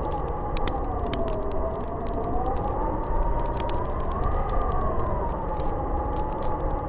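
Snowstorm wind howling with a heavy low rumble, its whistling note sliding slowly down, up to a peak about four seconds in, then down again. Scattered sharp crackling ticks sound over it.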